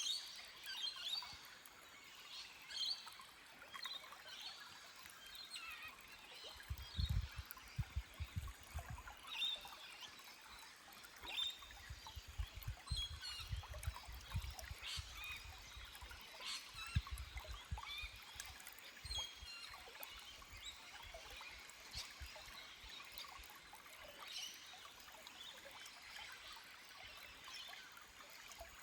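Forest stream trickling over rocks while small birds chirp off and on, with bouts of low rumbling in the middle.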